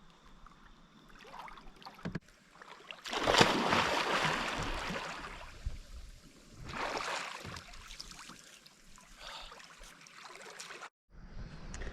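Kayak paddle strokes in river water: three swishing, splashing strokes a couple of seconds apart, the first the loudest.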